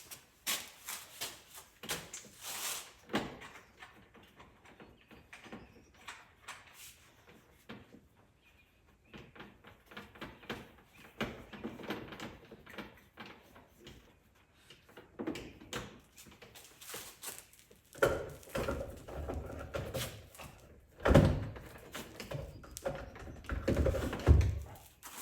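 Hands handling parts and packaging: scattered clicks, taps and rustles, with heavier knocks and rattles in the last several seconds.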